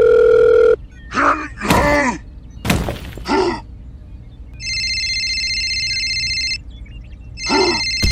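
Edited-in sound effects: a steady electronic beep that cuts off under a second in, then a few short voice-like cries that bend in pitch. About four and a half seconds in comes a telephone-style ringing trill that lasts about two seconds, with another short cry near the end.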